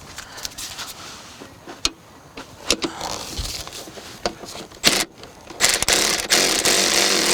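Sharp clicks and knocks of metal parts being handled, then, about two thirds of the way in, a power tool starts and runs steadily and loudly, most likely driving in a seat-belt anchor bolt.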